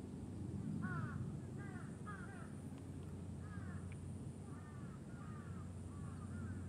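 A bird calling over and over in short, falling calls, often two in quick succession, about a dozen in all, over a steady low background rumble.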